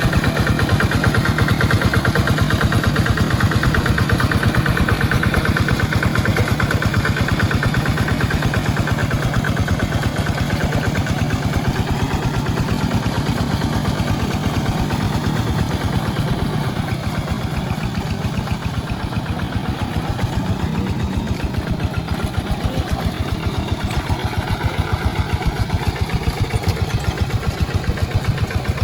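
Tractor engine running steadily with a fast, even firing beat while plowing a wet rice paddy. It eases off a little in the middle and picks up again near the end.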